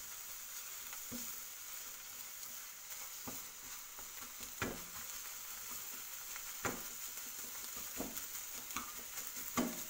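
Scrambled eggs sizzling in oil in a non-stick frying pan, a steady hiss, while a silicone spatula breaks them into small pieces and stirs them, with occasional soft knocks of the spatula against the pan.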